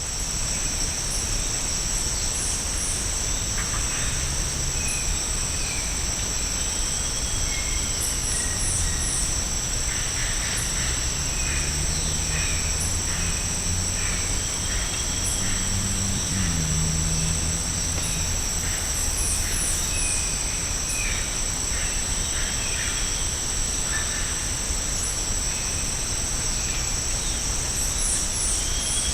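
Tropical rainforest ambience: a steady, high-pitched insect drone, with groups of short high chirps recurring every few seconds and scattered bird calls.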